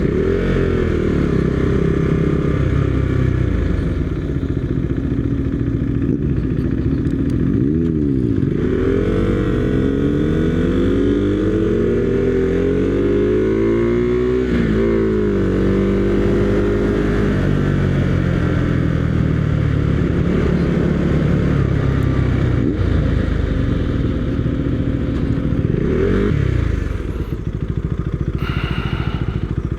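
Motorcycle engines running at low speed, including the rider's Husqvarna Svartpilen 401 single-cylinder, with pitch rising and falling as the throttle opens and closes. Through the middle, several engine notes glide up and down across one another. The engine sound drops noticeably near the end.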